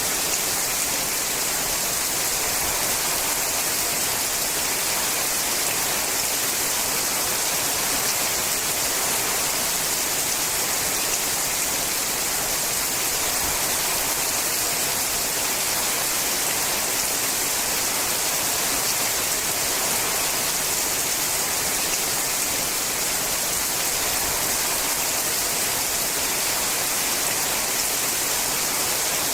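Steady rain falling on a sheet-metal roof, a dense, even hiss that never lets up.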